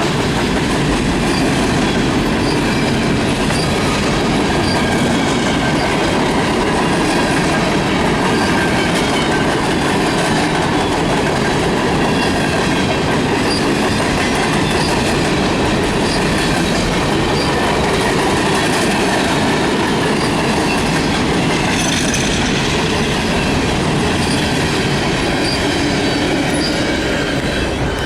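Freight cars of a Canadian National manifest train rolling past, wheels clacking over the rail joints in a steady loud rumble with a faint squeal of wheels on rail. The noise eases slightly near the end.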